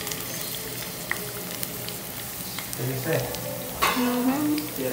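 Garlic and onion frying in hot oil in a pan: a steady sizzle with scattered small crackles. A person's voice comes in briefly over it in the last two seconds.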